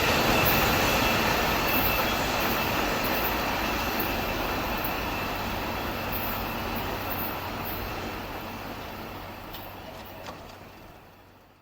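Amtrak Auto Train's cars rolling along the track, with wheels on rails, the rumble fading steadily as the train moves away and cutting off just at the end.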